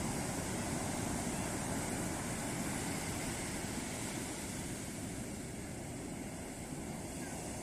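Ocean surf washing onto a beach: a steady, unbroken roar of breaking waves that eases off slightly in the second half.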